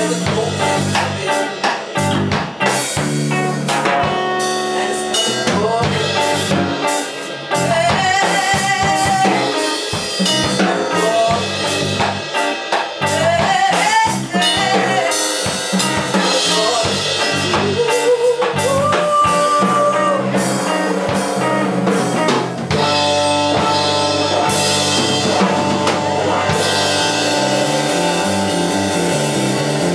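A blues band playing live: drum kit and bass under a melodic lead line that bends up and down in pitch.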